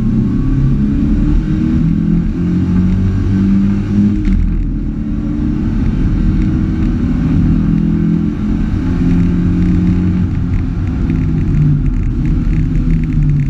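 Volkswagen Golf GTI Mk2's four-cylinder petrol engine running hard under load, heard from inside the stripped-out cabin, its revs rising and falling.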